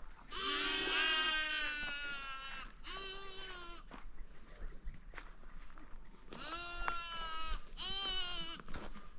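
Goats bleating: about four calls, the first a long one of about two seconds, then shorter ones a second or so apart near the middle and towards the end.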